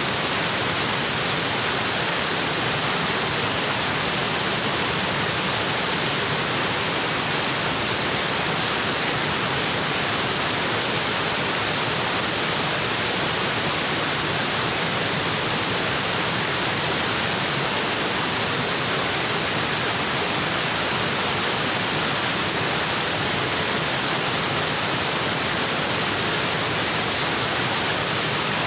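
Waterfall pouring onto rocks, a steady, even roar of falling water.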